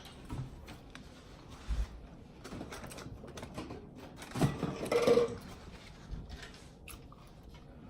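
Quiet scattered clicks, taps and rustling of small objects being handled at a table, with a soft thump about two seconds in and a brief murmured voice about halfway through.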